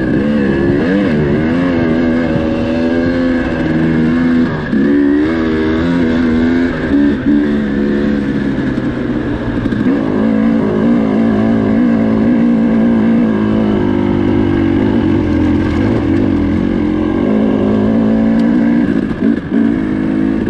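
Dirt bike engine under way, revving up and down through the first half, then running at a steadier speed, with a couple of brief drops when the throttle comes off.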